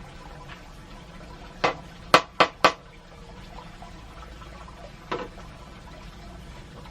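A steady wash of water noise, broken by sharp knocks: one about one and a half seconds in, three in quick succession just after it, and one more about five seconds in.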